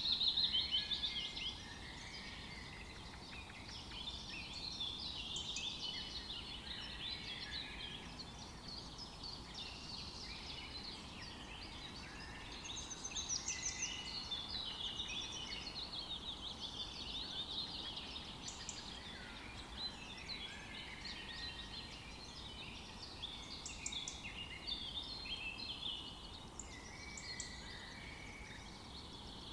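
Many songbirds singing and chirping together, a continuous overlapping chorus of high chirps and trills over a faint steady background hiss.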